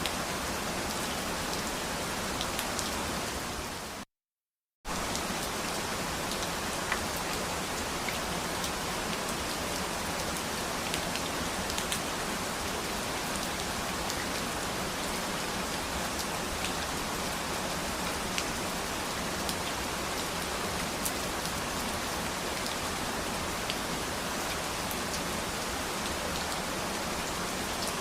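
Steady rain falling: an even hiss with scattered sharp ticks of single drops. About four seconds in, the sound dips and then cuts out completely for under a second before the rain resumes.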